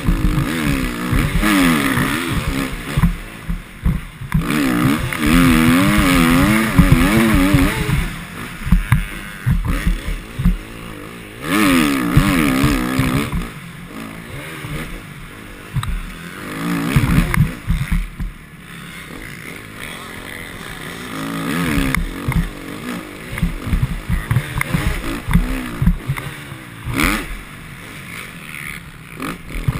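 Motocross bike engine revving hard and easing off again and again, its pitch rising and falling in loud surges with quieter stretches between them.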